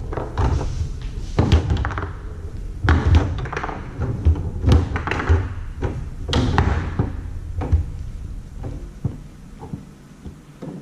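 Foosball play on a Tornado table: the ball and the rods' players knock and thud in quick clusters of sharp hits every second or two, thinning out near the end.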